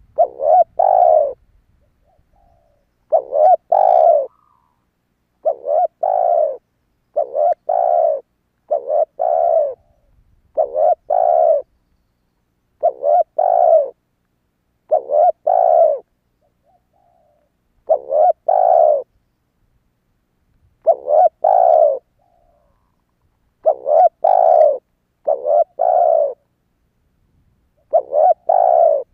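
Spotted dove cooing: a short, low phrase of a few notes, repeated again and again with gaps of a second or so between phrases.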